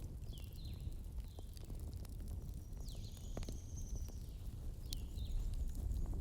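Bonfire burning: a low steady rumble of flames with scattered sharp crackles and pops, and a few short high chirps over it.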